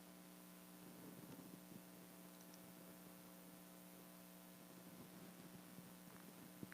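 Near silence: a steady electrical hum and faint hiss from the recording system.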